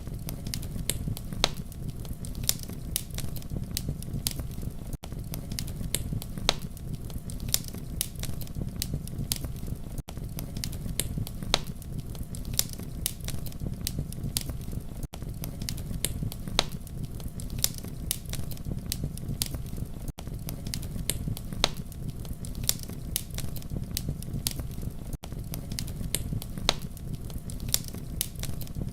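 Campfire crackling: a dense scatter of sharp pops and snaps over a steady low rumble of flames. The sound briefly drops out about every five seconds.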